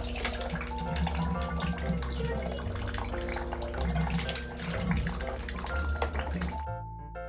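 Water running hard, like a tap or shower, over quieter music. Near the end the water cuts off suddenly and piano music carries on.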